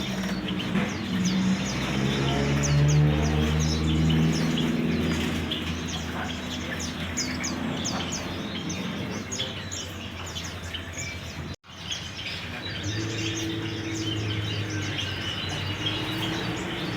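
Many caged songbirds chirping and calling at once in rapid, overlapping short notes, over a low steady drone.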